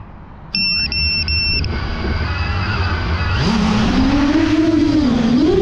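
Three short electronic beeps, then the 10-inch FPV drone's motors and propellers spin up about two and a half seconds in, a hum that rises and wavers in pitch with the throttle.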